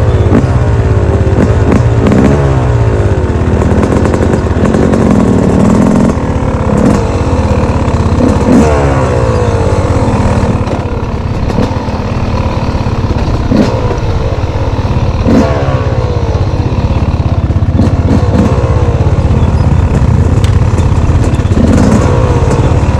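Single-cylinder off-road engine being ridden, revving up and easing off again and again, with scattered knocks and rattles from the ride.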